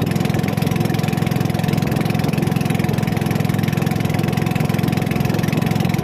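Small fishing boat's engine running steadily, an even, unchanging drone.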